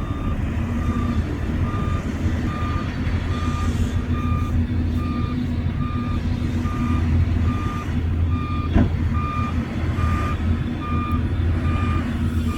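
Heavy earthmoving machine's reversing alarm beeping steadily about twice a second over the low drone of its diesel engine, with a single sharp metallic knock about two-thirds of the way through.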